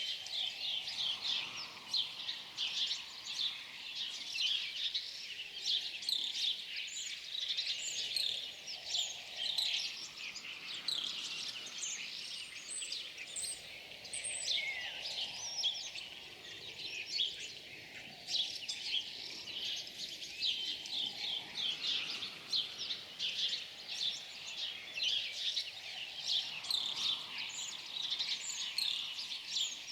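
Many small birds chirping and calling at once: a dense, continuous chorus of short, high notes overlapping without pause.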